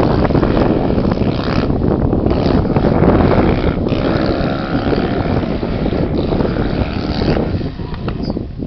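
Fiat 126p's small air-cooled two-cylinder engine running under load as the car is driven round a gravel rally stage, mixed with heavy wind noise on the microphone. The sound eases a little near the end.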